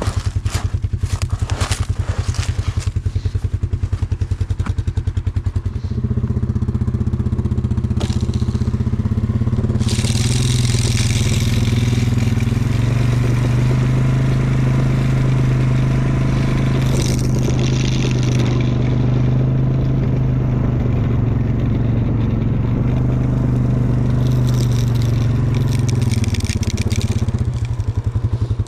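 Vehicle engine idling with an even low pulse, then running steadily at higher revs for about twenty seconds before dropping back to idle, while the hill is being salted. A hissing crunch comes through twice midway.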